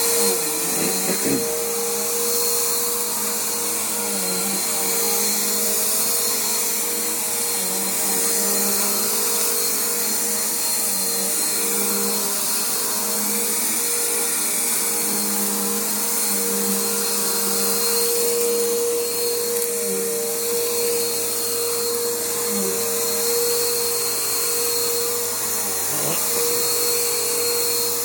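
Bissell PowerForce bagged upright vacuum cleaner running steadily while vacuuming, its motor giving a steady whine with a faint high-pitched tone above it. The pitch sags briefly now and then.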